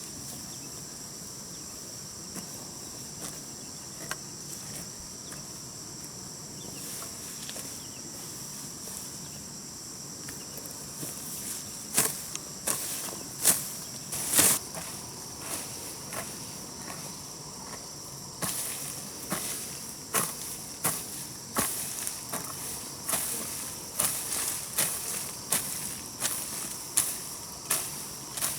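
Steady high chirring of insects such as crickets, with a few sharp strikes about halfway through. Then a garden hoe chops into grass and soil in a regular rhythm, roughly one blow a second.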